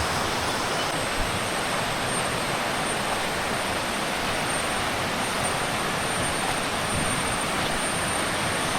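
Shallow rainforest river rushing over rocks and small cascades: a steady, even rush of water, with a thin, steady high-pitched whine above it.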